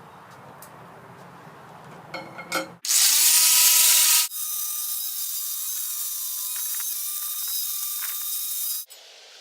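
A power tool running in two stretches: a loud burst about three seconds in, then a steadier run that stops suddenly near the end. A few clicks come just before the first stretch.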